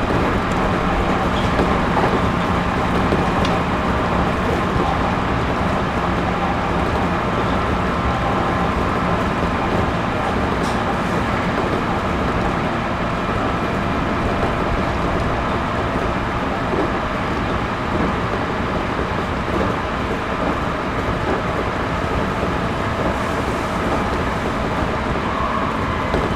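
Interior running sound of a Series 211-5000 electric multiple unit travelling steadily between stations: even wheel-on-rail noise with a few faint steady tones through it.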